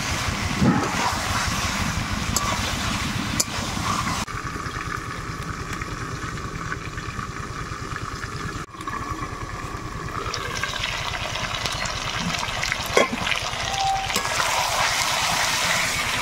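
Spiced chicken frying in its released oil in an aluminium kadai, sizzling while a spatula stirs it: the kosha stage of browning meat in masala. For a stretch in the middle the pan is lidded and the sizzle is duller, then it brightens again as stirring resumes, with a few knocks of the spatula against the pan.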